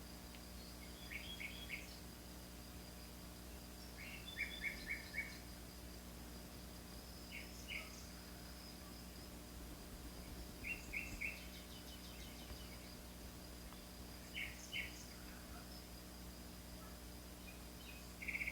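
A bird chirping in short groups of two to four quick notes, a group every three seconds or so, over a faint steady high-pitched insect drone.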